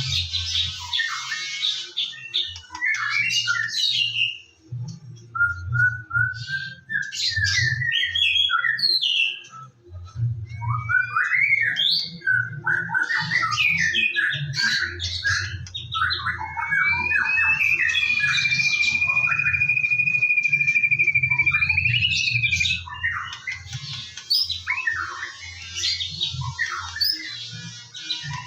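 White-rumped shama (murai batu) singing a rapid, varied song of whistles, chatters and trills, with one long held whistle about two-thirds of the way in, over a low hum.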